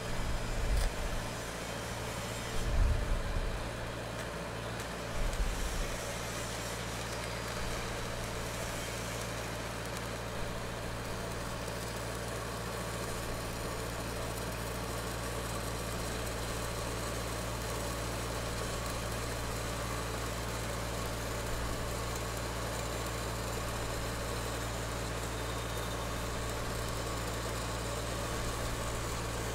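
Welding machine running with a steady low hum, with a few low thumps in the first six seconds.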